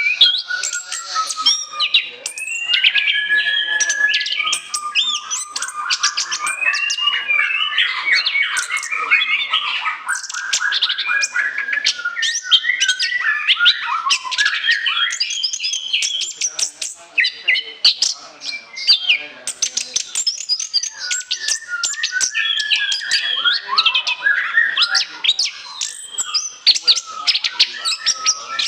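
Orange-headed thrush singing a continuous, rich song of fast chattering phrases and clear whistled notes, easing off briefly about halfway through.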